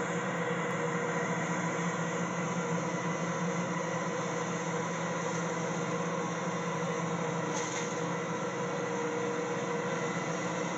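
Steady drone of a garbage truck's engine running, under a constant hiss, with no clear changes.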